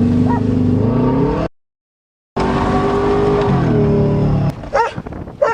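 Subaru Legacy's boxer engine running steadily at speed. The sound drops out completely for about a second, then the engine note steps down and it falls quiet. A dog barks twice near the end.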